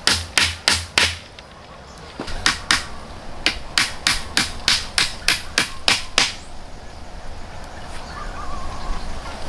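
Quick, sharp blows of a hand tool on wood, about three a second: four strikes, a pause of about a second, then about a dozen more that stop about six seconds in.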